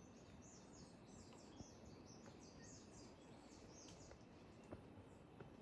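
Faint outdoor background with a bird chirping in a quick, high-pitched run for about the first four seconds, and a few soft clicks.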